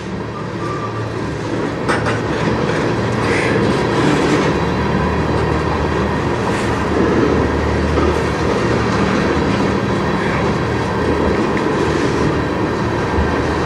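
Freight train of tank cars rolling slowly past on the rails: a steady rumble of steel wheels on track, with a few faint clicks.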